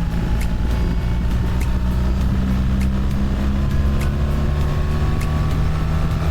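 BMW R1300 GS boxer-twin engine running steadily under load as the bike is ridden, its pitch holding level, then falling in pitch right at the end.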